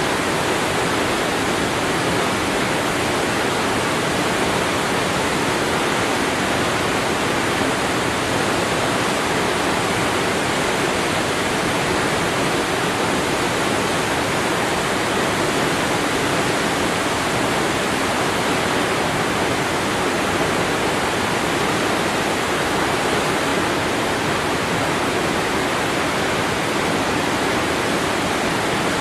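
Waterfall: water falling steadily onto rock and pool, an even, unbroken rush.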